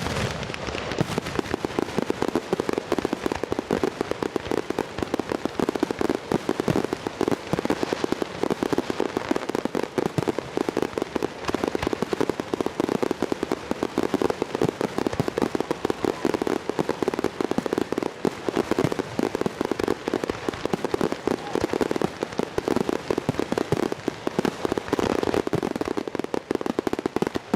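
Fireworks going off in a dense, unbroken barrage of rapid bangs and crackles, many a second; it drops away right at the end.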